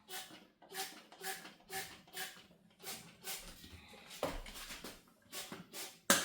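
Trigger spray bottle being squeezed repeatedly, a series of short hissing squirts about two a second, spacing out later, with the sharpest squirt near the end.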